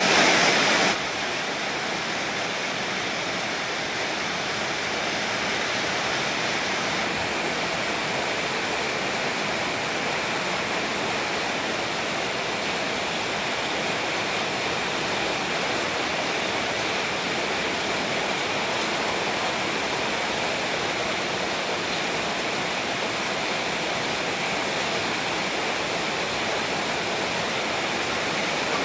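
Rain pouring down steadily in a summer downpour, an even hiss that is a little louder in the first second.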